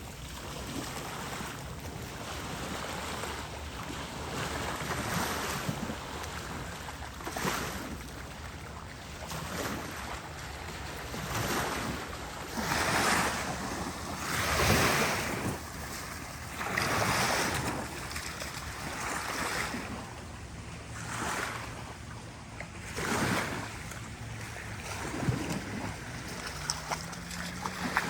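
Small bay waves washing onto the beach in repeated swells a second or two apart, with wind buffeting the microphone.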